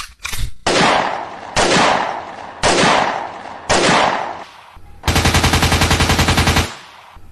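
Four heavy gunshot-like blasts about a second apart, each dying away, then a rapid machine-gun-like rattle of about ten strokes a second for about a second and a half.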